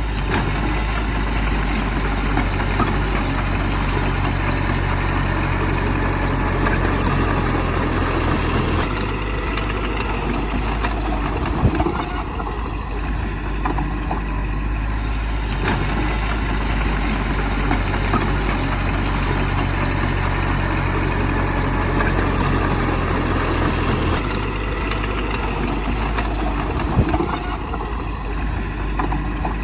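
Bulldozer's heavy diesel engine running steadily. Its note shifts twice, each time followed about three seconds later by a sharp clank.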